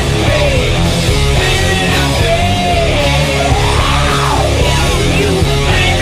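Loud rock music with electric guitar over a steady low rhythm; a melody line slides up and back down about four seconds in.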